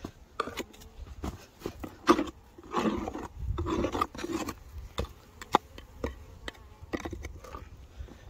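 Irregular scraping, rubbing and knocking on the wooden parts of a beehive as it is handled and opened, with several sharp clicks.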